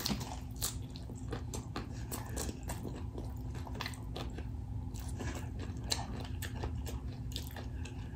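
A person chewing a mouthful of crunchy hard-shell corn taco close to the microphone: irregular crisp crunches of the shell, a sharper one about six seconds in.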